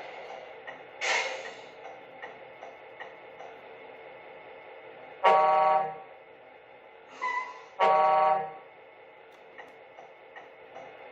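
Truck air horn sounded twice, each blast under a second long and about two and a half seconds apart, played by the RC tipper truck's electronic sound unit. A short hiss comes about a second in.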